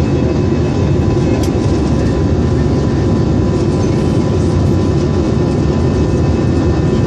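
Jet engine and airflow noise heard inside the cabin of an Airbus airliner in flight: a steady, dense low rumble with a faint steady whine above it.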